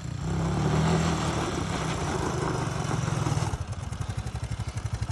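Red Honda trail motorcycle's single-cylinder engine running with an even, rapid pulsing beat, at higher revs for the first three and a half seconds, then cutting to a quieter steady idle.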